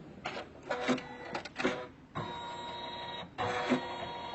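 Usha Janome Memory Craft 550-E computerized embroidery machine stitching out a design: a few short mechanical bursts, then steady running with a whine from about two seconds in, broken briefly a little after three seconds.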